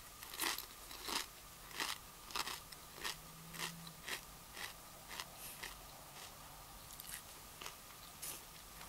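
Close-up chewing of a mouthful of Doritos tortilla chip: short crunches at about one and a half a second, getting fainter as the chip is ground down.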